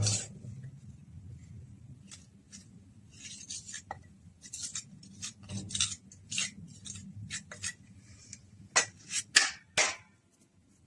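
A series of short scrapes and clicks from hard tools or pipe parts being handled and rubbed, irregular and spread out, with three louder scrapes near the end.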